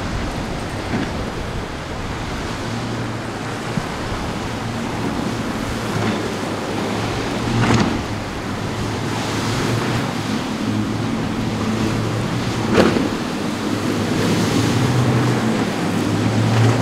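Motorboat engine droning, rising and falling, over breaking waves and surf. Two sharp hits stand out, about 8 and 13 seconds in.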